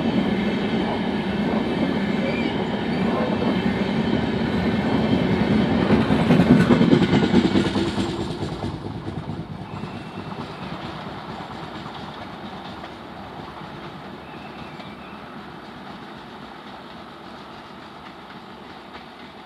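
Passenger train coaches running past, their wheels rumbling on the rails. The sound is loudest about six to seven seconds in, as the last coaches go by, then fades steadily as the train moves away.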